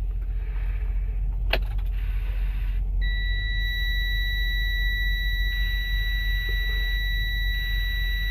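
Detroit diesel engine idling low just after start-up, with a click about a second and a half in; about three seconds in, the dashboard warning buzzer starts a steady high-pitched tone and holds it while the oil pressure is still building.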